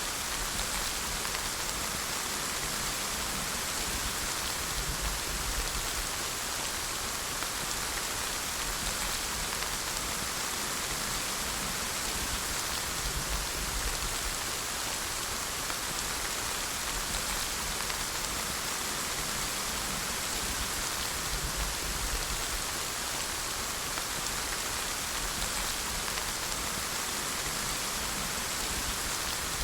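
Steady rain falling, an even hiss of many drops with a faint low rumble underneath.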